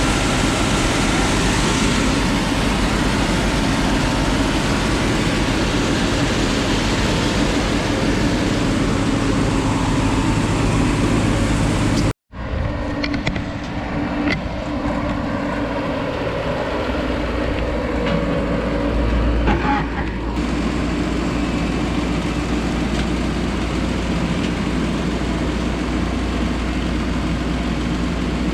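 Mazzotti high-clearance self-propelled crop sprayer running steadily, an engine drone under a loud hiss. About twelve seconds in the sound cuts out for an instant and comes back duller, with far less hiss.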